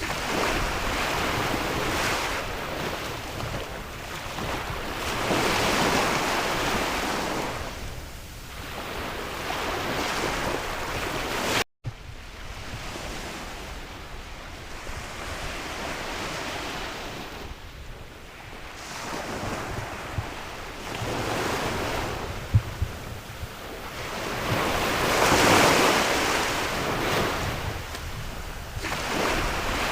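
Sea waves breaking and washing in, swelling and fading every few seconds, with wind blowing across the microphone. The sound cuts out for an instant about twelve seconds in.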